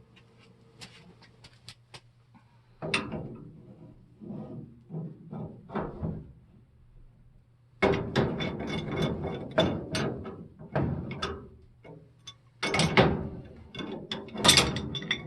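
Two adjustable (crescent) wrenches clinking and scraping on steel gas-pipe fittings while a valve union is worked tight. Scattered sharp clicks come first, then irregular bursts of rattling that grow denser from about halfway in.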